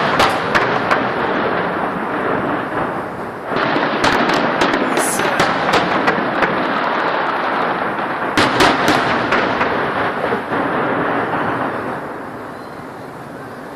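Fireworks going off: dense crackling with many sharp bangs in quick succession, surging again about four seconds in and dying away about twelve seconds in.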